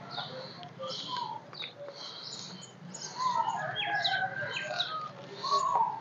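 Birds chirping and calling in the background, many short high chirps and brief whistled glides scattered throughout.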